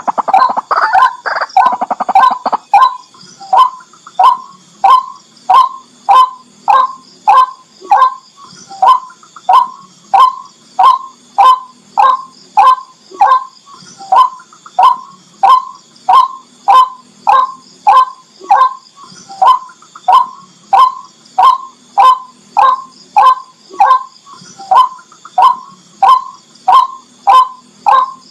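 Barred rail (tikling) calling: one short note repeated at a very even pace, about twice a second. The first two seconds hold a faster, denser run of calls.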